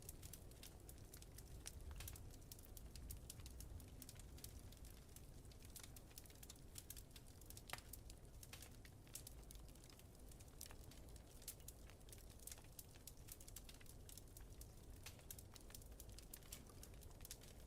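Faint crackling of a wood fire, with many irregular small pops and snaps over a low steady rumble.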